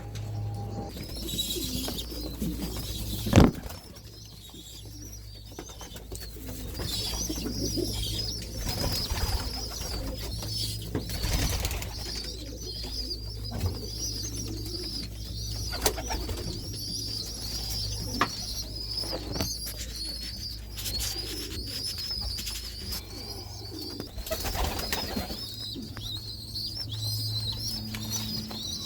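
Racing pigeons cooing around the loft, with scattered knocks and one sharp knock a few seconds in.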